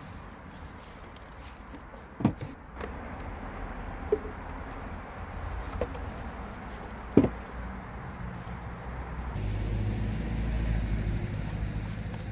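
A few sharp knocks and clicks from handling wooden beehive parts, then a low, steady engine rumble of a motor vehicle that sets in about three-quarters of the way through.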